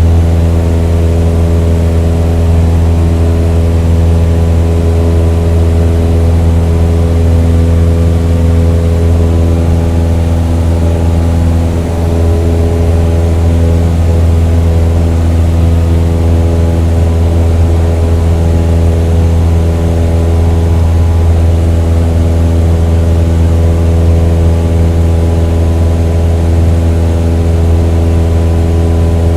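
An engine running steadily at one constant speed, a deep even hum that neither revs up nor dies down.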